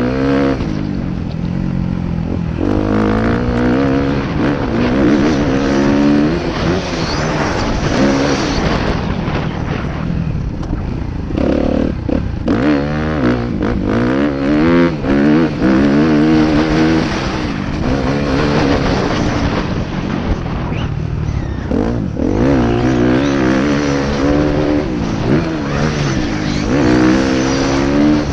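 Motocross bike engine revving hard and backing off over and over, its pitch repeatedly climbing and then dropping through gear changes, over steady rushing noise.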